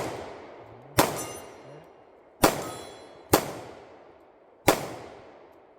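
Four pistol shots fired at irregular intervals of about one to one and a half seconds, each followed by the ring of a struck steel target.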